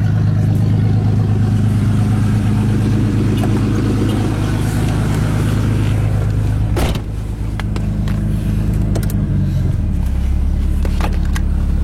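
Jeep 4.0 straight-six running with no muffler, the exhaust open right after the catalytic converter, while driving on the road. The engine note holds steady, a sharp click comes about seven seconds in, and the note steps down to a lower pitch near the end.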